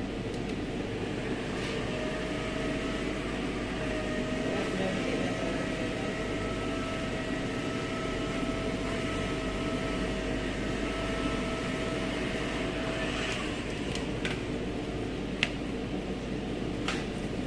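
Steady machine hum with a faint whine held through most of it, and a couple of sharp clicks near the end.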